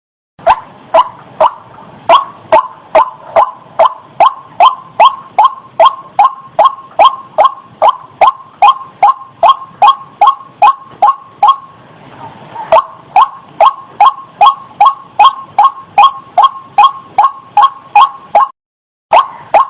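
White-breasted waterhen (ruak-ruak) calling: a fast, even series of short, sharp notes at about three a second. The notes soften briefly about twelve seconds in, and break off for a moment near the end.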